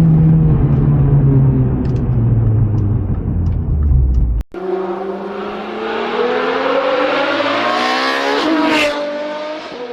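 Big-turbo Audi B5's 1.8T engine: a low, steady rumble that cuts off suddenly, then the engine revving up hard under acceleration, its pitch rising for several seconds before dropping sharply with a brief hiss near the end and climbing again.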